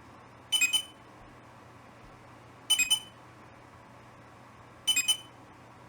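Electronic beeps from scanning a comic book's barcode: three quick double chirps about two seconds apart, as the scan is retried on a book that the cataloguing program does not recognise.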